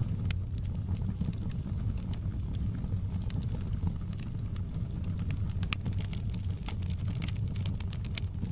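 Crackling fire: a steady low rumble of flames with scattered sharp pops and crackles, which come thicker about seven seconds in.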